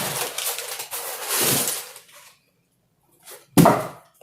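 Gift packaging rustling and tearing as it is opened, then a single sharp knock about three and a half seconds in.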